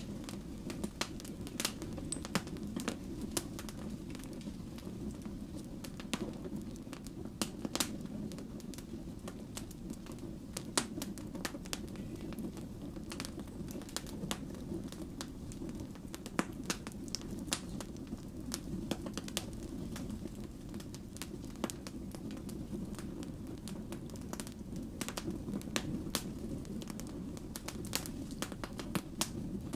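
Firewood burning, with frequent irregular sharp crackles and pops over a steady low rush of the flames.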